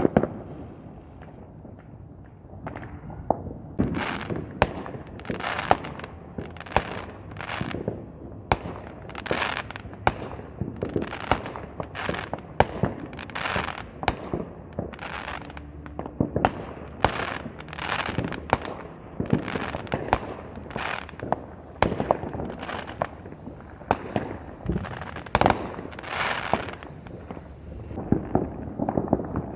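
Fireworks going off in quick succession: a sharp bang with a hiss, about one or two a second, starting a few seconds in and keeping on.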